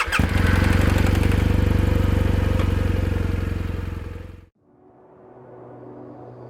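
BMW R1200GS boxer-twin motorcycle engine running with a fast, even pulse, cutting off abruptly about four and a half seconds in. Soft music fades in afterwards.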